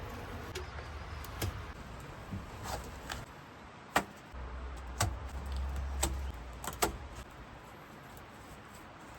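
A series of irregular sharp knocks, about seven of them a second or so apart, the loudest about four seconds in, over a low rumble that grows stronger for a couple of seconds midway.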